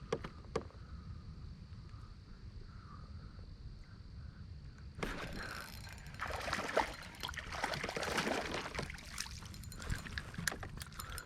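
Water sloshing and splashing around a kayak, with scattered knocks and clicks, starting abruptly about five seconds in. Before that there is only a low steady rumble of wind and water.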